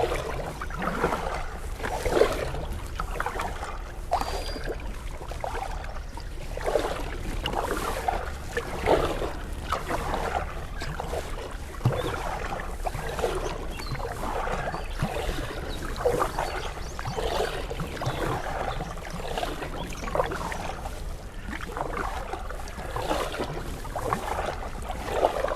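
Canoe paddle strokes: the blade dips and pulls through the water with a splashy swish about every second or two, steady throughout. A few sharp knocks, likely the paddle against the hull, come now and then.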